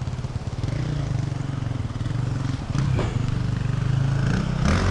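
2024 Yamaha YZ450F's single-cylinder four-stroke engine running steadily at low revs through a Yoshimura RS-12 exhaust, picked up close to the exhaust side. It picks up slightly a little past halfway, with a few light clicks.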